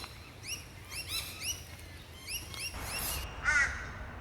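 Wild birds chirping: rapid runs of short, high, arched chirps, several a second, with a louder, lower call of falling notes near the end.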